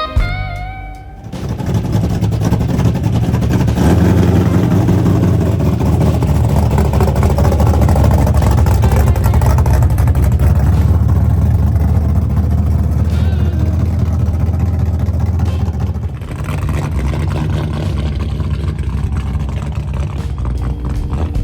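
Car engine running loud and low, easing off a little about three-quarters of the way through.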